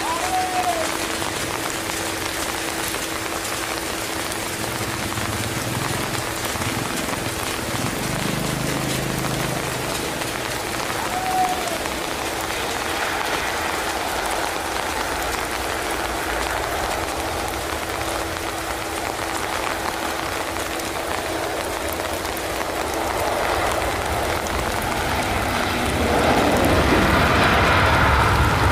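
Heavy rain falling steadily. About 26 s in, a Boeing 737-800's jet engines grow louder as the airliner touches down and rolls out on the wet runway, throwing up spray.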